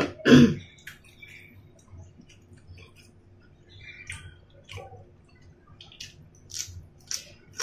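Wet mouth and chewing sounds of someone eating steamed dumplings and broccoli, a string of soft scattered clicks and squishes. A short loud voice sound comes right at the start.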